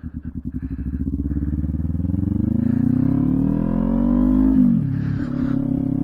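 Kawasaki Ninja 400's parallel-twin engine through a LeoVince aftermarket exhaust, pulling from low revs with rising pitch, dropping sharply about four and a half seconds in at a gear change, then climbing again.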